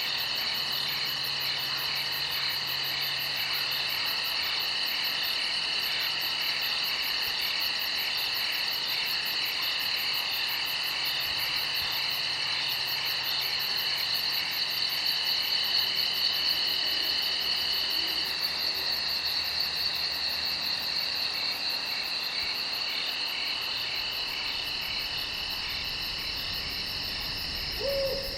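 Night chorus of crickets: several steady chirping trills at different pitches overlapping, with a fast high pulsing above them. A short lower call breaks in near the end.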